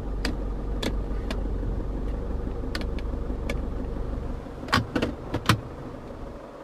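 The Isuzu D-Max's 2.5-litre twin-turbo diesel idles steadily, heard from inside the cab, as a low hum. Several sharp clicks cut through it, with a louder cluster of clicks and knocks about five seconds in, typical of dashboard switches and buttons being pressed.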